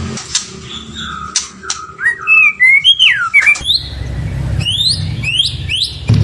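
White-rumped shama singing: sharp clicking notes, then rich sliding whistles, then a quick run of rising whistled sweeps. A low rumble sits underneath from about halfway through.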